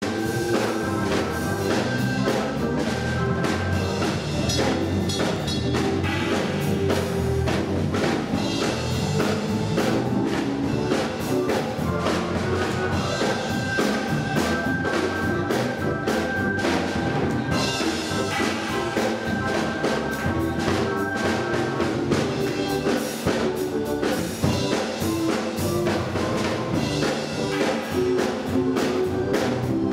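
Gospel church band playing without singing, a drum kit keeping a steady beat under held instrumental notes, ahead of the choir.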